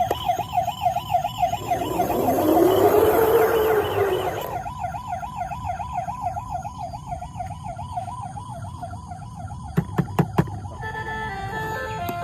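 Toy vehicle's electronic siren: a fast warbling tone, joined about two seconds in by a noisy swell with a tone that rises and falls, and cut by four sharp clicks near the end, after which a short electronic tune begins.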